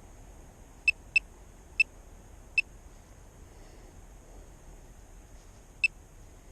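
Five short, sharp electronic beeps at one pitch, four of them irregularly spaced in the first three seconds and one more near the end, from the drone's handheld remote controller. Beneath them, a low steady hiss of wind.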